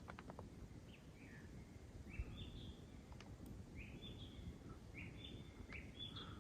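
A bird calling, with about six short chirps, each a quick rising note that levels off, spaced a second or so apart, over a faint low rumble.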